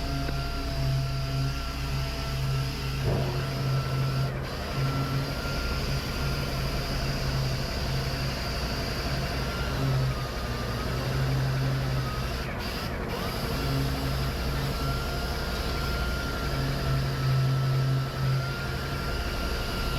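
A heavy truck's diesel engine running, its low rumble swelling and easing, with a thin steady whine over it.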